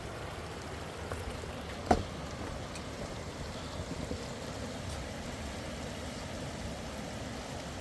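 Steady rush of flowing river water, with one short sharp knock about two seconds in.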